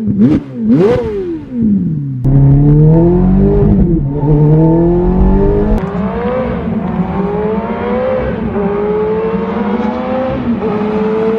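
Ferrari F430's V8 running straight-piped with its muffler removed: it is revved sharply twice and falls back. It then pulls hard through the gears, the pitch climbing and dropping back at each of four upshifts.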